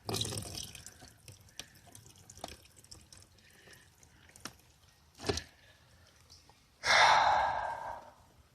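Rainwater running off a tarp into a bucket: scattered drips and splashes, with a louder gush of water lasting about a second near the end.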